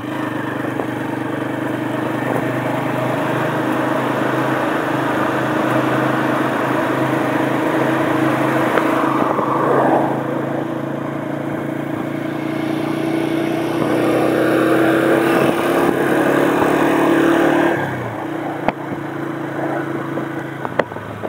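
Honda CG125's single-cylinder four-stroke engine running steadily under way, with wind and road noise. Its note drops about eighteen seconds in.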